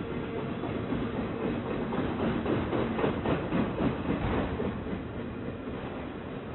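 A train rolling past, its wheels on the rails making steady noise, with a run of rapid clicks over rail joints in the middle.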